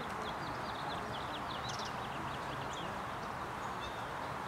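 Small birds chirping in quick runs of short, high notes, thickest in the first couple of seconds, over a steady background hiss.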